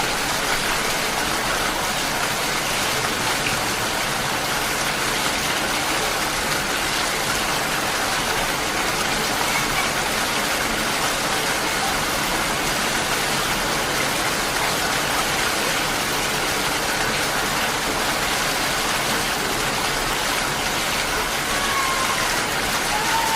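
Heavy rain falling in a steady downpour, a dense, even hiss of water that holds at one level.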